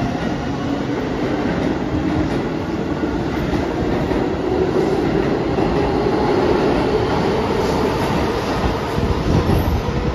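Keihan 8000 series electric train pulling out of an underground station: steady running noise of wheels on rail and motor hum, with a low hum that rises slightly as it picks up speed, echoing in the station.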